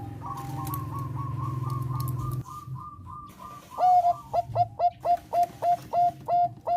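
Zebra dove (Thai 'perkutut bangkok' type) cooing: first a quick, soft run of short notes, then after a brief pause a series of about nine loud, clipped coos, roughly three a second, each dipping sharply in pitch at its start.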